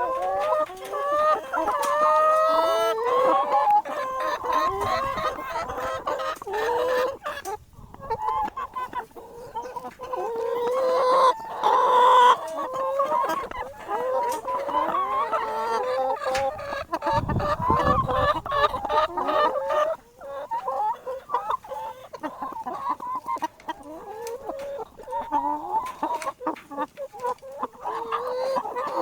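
Flock of chickens clucking and calling, many short calls overlapping, with frequent sharp clicks among them and a brief low rumble about two-thirds of the way through.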